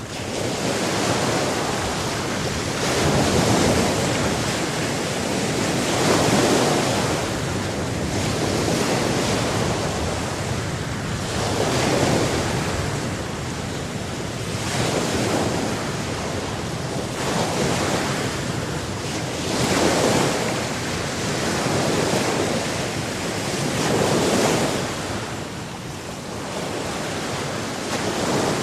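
Ocean waves breaking on a shore, a continuous wash of surf that swells and falls back every few seconds.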